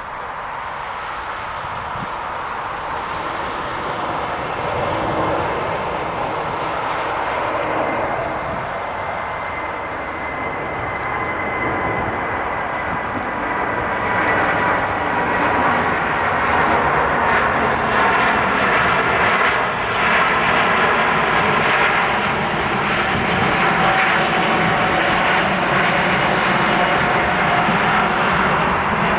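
Airbus A380 jet engines running, a loud rush with a steady high whine on top, growing louder over the stretch.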